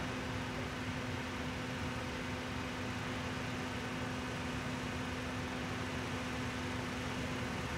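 A car engine idling steadily: an even low hum over a bed of noise, with no change.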